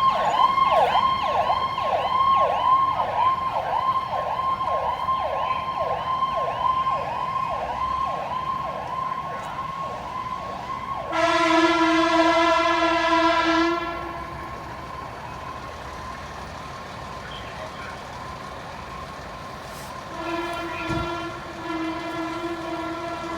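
Emergency vehicle siren on a fast yelp, sweeping up and down about twice a second, cut off by a long, loud air horn blast about halfway through. A second air horn blast comes near the end.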